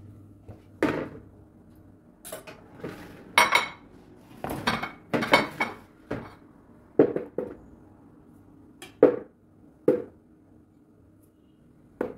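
Kitchenware being handled: a dozen or so clinks and knocks of dishes, a pot and utensils being set down and moved, some ringing briefly, in irregular clusters with short pauses between.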